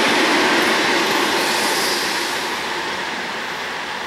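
Passenger train hauled by a ChS7 electric locomotive passing at speed: a steady rush of wheel and rail noise that eases slowly.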